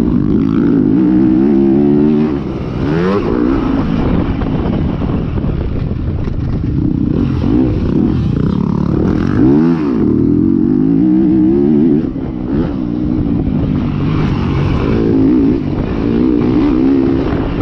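450-class motocross bike engine under race throttle, its pitch repeatedly rising and falling as the rider accelerates, shifts and backs off.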